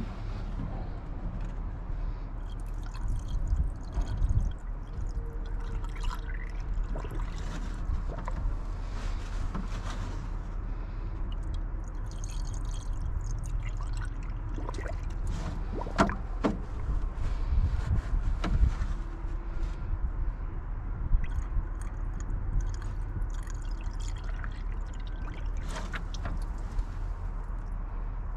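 Coolant being poured into the car's cooling system, liquid trickling and pouring steadily, with a few sharp knocks of handling, the clearest about 16 and 21 seconds in.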